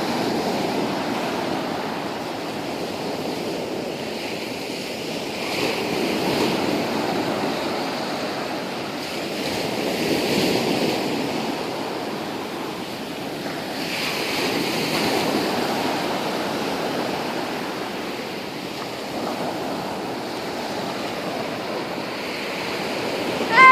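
Ocean surf breaking on a beach: a steady wash of waves that swells and fades every four or five seconds. Right at the end comes a loud, drawn-out shouted call.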